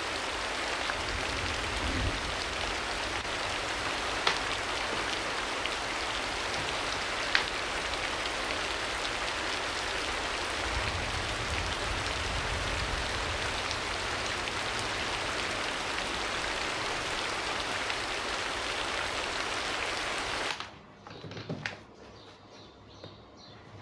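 Steady rain, with a few louder drop ticks here and there. The rain cuts off abruptly near the end, leaving a much quieter background with faint light ticks.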